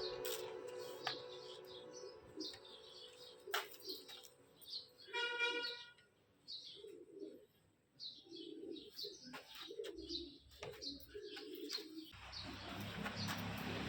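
Birds chirping faintly with many short, high calls, and a low rumble coming in near the end.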